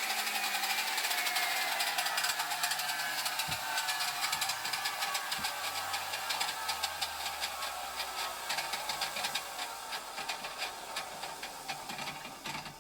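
Circular saw winding down after being switched off: its whine falls steadily in pitch and fades as the blade slows, with a fine fast rattle throughout. There are two short knocks, about three and a half and five and a half seconds in.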